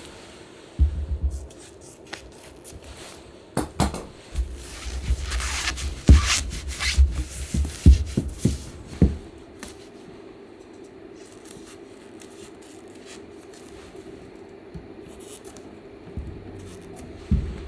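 Hand work on a chair being reupholstered: rubbing and scraping of fabric and padding, with scattered knocks and sharp clicks during the first half. The second half is quieter, with a faint steady tone.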